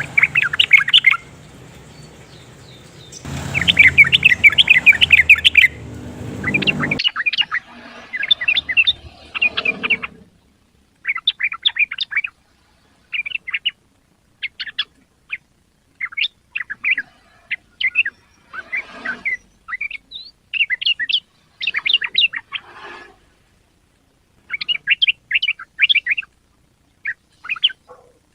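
Yellow-vented bulbul singing: repeated bursts of quick, bubbling chattering notes, each lasting about a second or two, with short pauses between. A hissy background under the first several seconds cuts off suddenly about seven seconds in, leaving the song on a quiet background.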